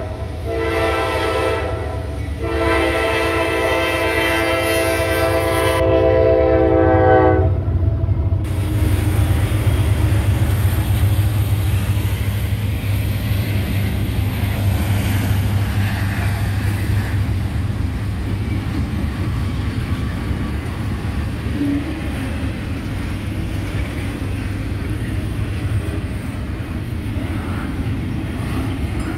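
Norfolk Southern freight train's three-unit locomotive lashup blowing its horn in long blasts for a grade crossing, the horn stopping about seven seconds in. The locomotives then pass with a deep engine rumble, followed by the steady rolling of the double-stack intermodal cars.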